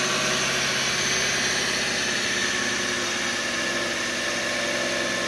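Freshly installed used Subaru boxer engine idling steadily on its first startup, the idle easing down slightly over the first few seconds. It runs smoothly with no knocking.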